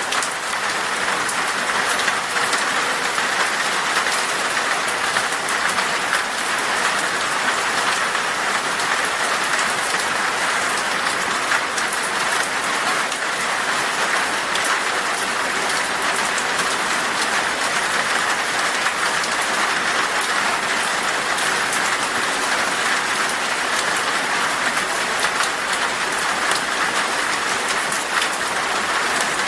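Heavy rain falling steadily on a glass pane: an even, unbroken hiss dotted with countless tiny drop ticks.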